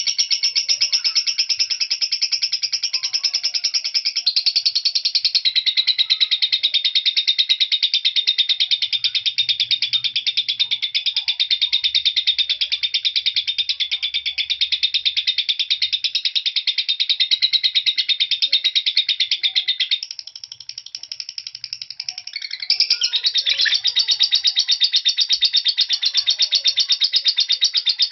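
Lovebird singing a long, fast, unbroken chattering trill (ngekek), the drawn-out song of a semi-konslet lovebird; it breaks off about 20 seconds in and resumes some two seconds later.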